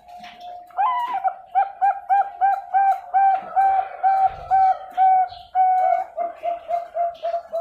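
Bangkok-strain zebra dove (perkutut) singing: a fast run of short, clipped coo notes, about three a second, that starts about a second in and quickens slightly near the end.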